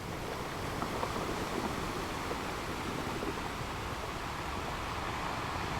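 Ocean waves breaking on a beach, a steady wash of surf with gentle swells.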